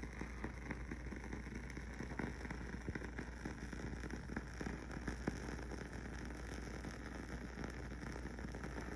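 Wooden-wick aroma candle burning with a soft, steady crackle of many small irregular pops, like a fireplace or campfire.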